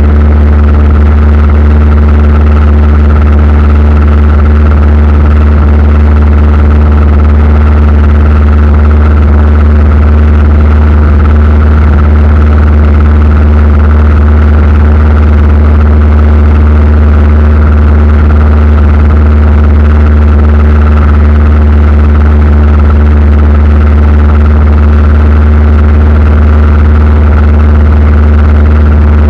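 Aircraft engines heard from inside the cabin: a loud, steady, unchanging low drone with a few constant tones above it.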